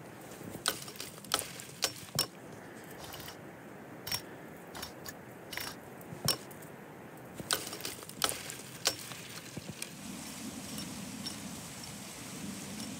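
Bare tree branches and twigs cracking and snapping as they are dragged and handled: a string of irregular sharp cracks. A faint steady hum comes in near the end.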